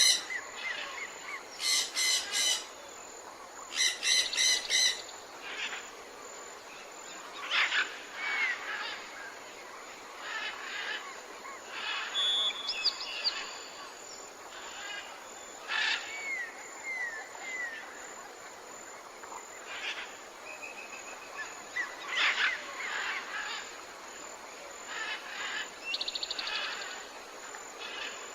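Several birds calling and singing over a faint steady hiss: loud, quickly repeated chirps in the first few seconds, then scattered short whistles and calls, with a fast trill near the end.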